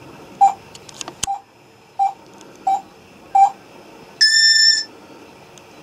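Pet parrot whistling a string of short, even notes, about one every two-thirds of a second, then giving one loud, harsh squawk about four seconds in.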